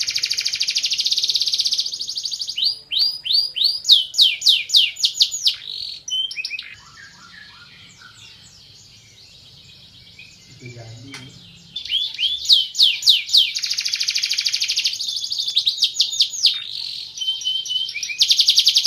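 Canary singing: long phrases of fast repeated falling notes and rattling trills, breaking off for about five seconds in the middle before starting up again.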